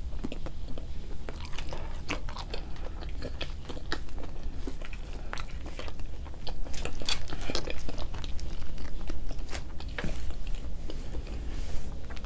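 Close-up chewing and biting of McDonald's food, with repeated crunchy bites and mouth clicks, a little louder in the middle.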